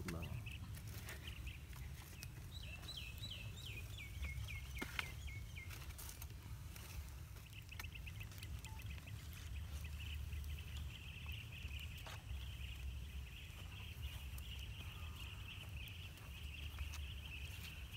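Outdoor ambience: a bird calls a quick run of falling chirps a few seconds in, then a steady high trill carries on from about eight seconds, over a low rumble of wind on the microphone and scattered small clicks.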